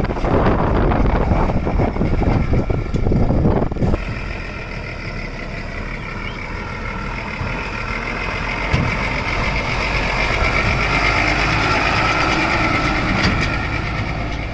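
Heavy diesel machinery running at a work site: a loud, rough rumble for about the first four seconds, then a steadier engine sound with a high whine that grows louder toward the end.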